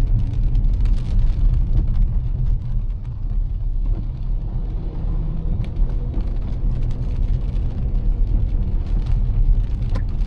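A car driving on a wet road in heavy rain: a steady low rumble from the car and tyres, with scattered taps of raindrops.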